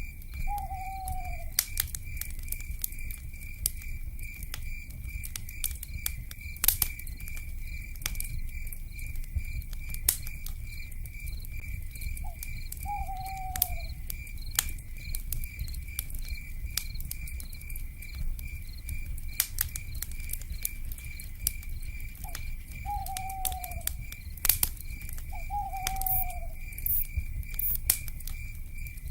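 A wood fire crackling with irregular sharp pops over a steady pulsing insect trill and a low rumble. An owl gives a short, slightly falling hoot four times: right at the start, about 13 seconds in, and twice near the end.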